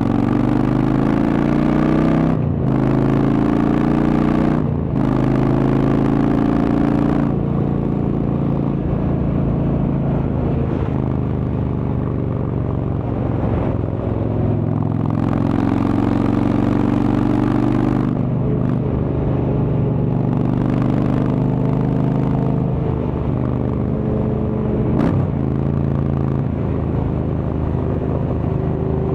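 Indian Chieftain's Thunder Stroke V-twin through a Freedom Performance exhaust, pulling up through the gears on the road: the note climbs in pitch and dips at each gear change, three quick shifts in the first eight seconds and more in the second half, over a low rumble.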